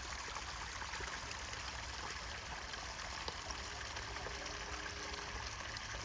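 A small brook trickling and babbling steadily. In the middle, a faint distant train horn sounds for about two seconds.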